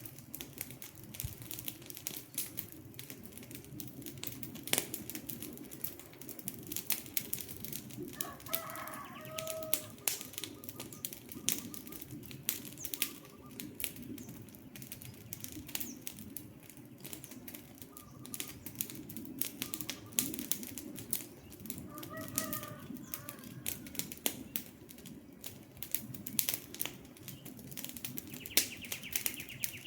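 Campfire crackling and popping steadily over the low rush of the flames. A bird calls briefly twice, about eight seconds in and again about twenty-two seconds in.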